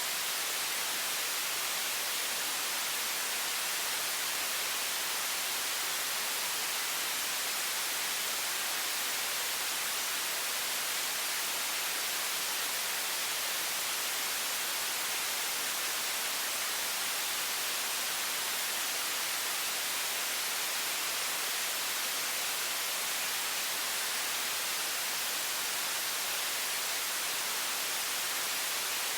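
High-pressure stream of water running from a faucet: a steady, bright hiss with little low rumble, unchanging throughout.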